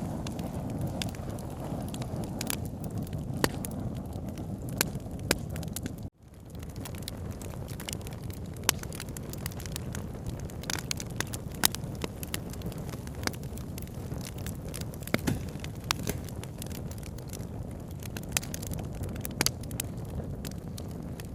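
Campfire crackling, with frequent sharp pops over a steady low rushing background. The sound cuts out briefly about six seconds in and fades back up.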